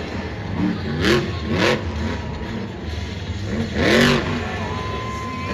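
Monster truck's blown alcohol-fuelled engine revving in three sharp blips that rise and fall in pitch, the loudest about four seconds in, over a steady engine drone.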